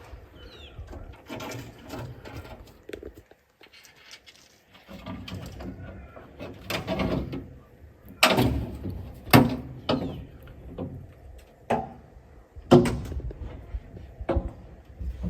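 Irregular knocks and thuds of hard objects being handled, with several sharp, loud knocks in the second half and a brief lull about three seconds in.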